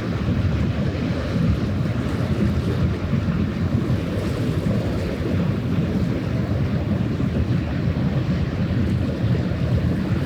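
Steady wind buffeting the microphone over water washing against the shore, a low, even rumble with no distinct events.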